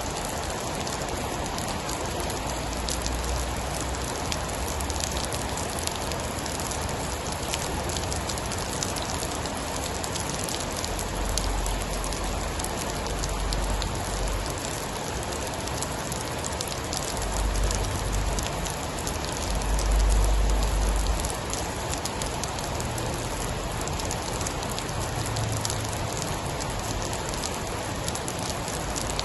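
Steady heavy rain pattering on a surface, full of fine drop ticks. Low rumbles swell under it several times, the loudest about twenty seconds in.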